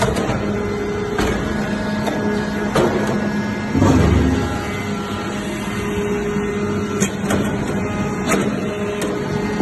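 Automatic hydraulic metal chips baler running: a steady mechanical hum with a held tone, sharp clicks and clanks every second or so, and a louder low thump about four seconds in.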